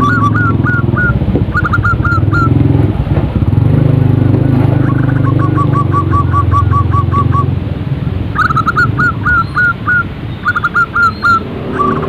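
Zebra dove calls: quick series of short repeated notes, some ending in an upward hook, in three runs with a pause of a couple of seconds in between. A steady low hum runs beneath them.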